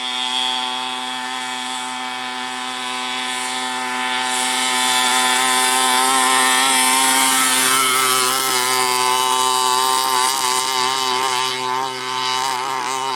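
Small two-stroke engine held at high revs, running steadily with a slight waver in pitch. It gets a little louder about four seconds in and drops away at the very end.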